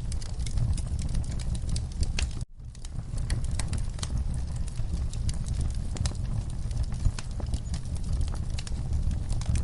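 Wood fire burning in a fireplace: a steady low rumble of flames with frequent sharp crackles and pops. The sound drops out for an instant about two and a half seconds in.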